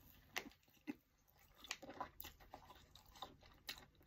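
A person biting into and chewing a toasted sandwich: faint, irregular crunches of toasted bread.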